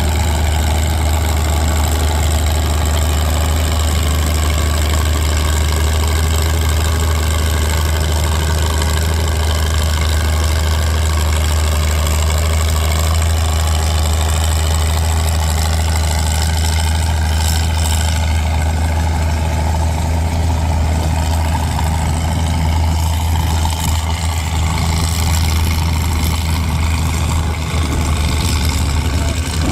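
Antique tractor engine idling steadily, a low, even run that holds without revving.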